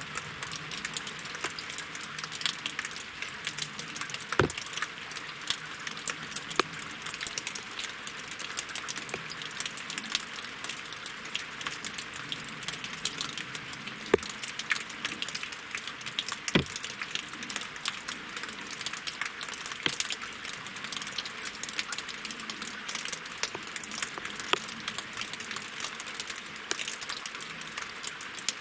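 Steady winter rain falling on a lake and on wooden logs: a dense patter of drops, with a few louder single drips standing out now and then.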